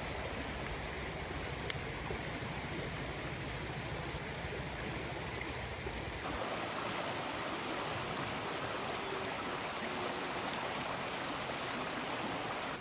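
Steady rushing of running water, like a stream, with no other distinct sounds. About six seconds in the sound changes abruptly as the low rumble drops away and a brighter hiss remains.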